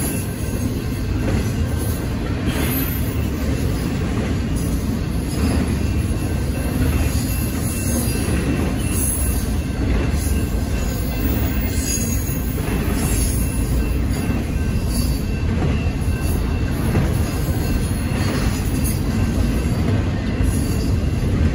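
Union Pacific intermodal freight cars, carrying trailers and double-stacked containers, rolling steadily past a grade crossing. A steady rumble of wheels on rail with clattering every second or two.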